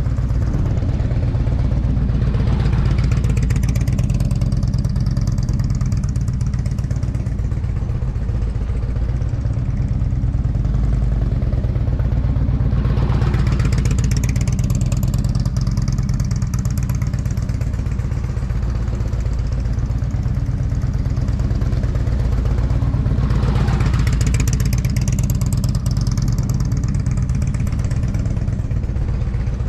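Motorcycle engine running as it is ridden in laps, passing close three times about ten seconds apart, each pass swelling and fading.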